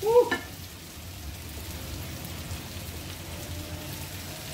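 Diced chocho (chayote), carrot and sweet potato with herbs sizzling steadily in a frying pan. A short vocal exclamation comes right at the start.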